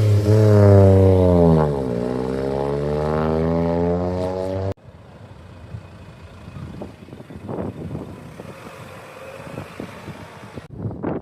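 A car engine running loud, its pitch dropping and then climbing steadily as it accelerates. About five seconds in it cuts off abruptly, leaving a much quieter background with a few scattered knocks.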